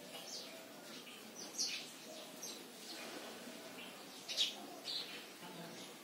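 A songbird calling in several short, sharp chirps, each falling in pitch, spaced unevenly over the few seconds, the loudest about four and a half seconds in.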